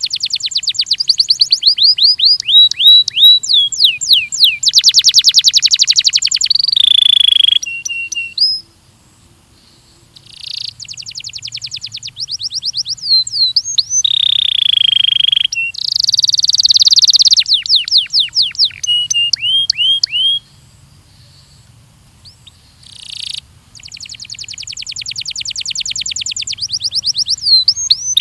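Belgian canary singing: fast trills of rapidly repeated high notes, strings of falling whistled glides and short held notes, with two brief pauses, one about a third of the way in and one about two-thirds in.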